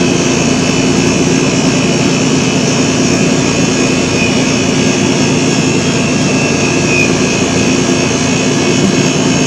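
Steady hum and hiss, unchanging, with a low tone under it.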